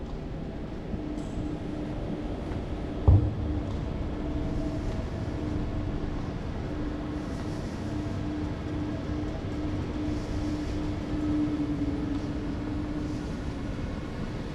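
Train in a station: a steady low rumble with a held, even hum, and one sharp knock about three seconds in.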